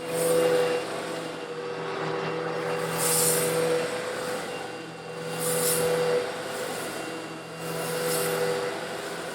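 Old Eureka vacuum cleaner's motor running steadily while it sucks up small coarse stone granules, slightly larger than sand, with louder surges of gritty hiss about every two and a half seconds as the granules are drawn in.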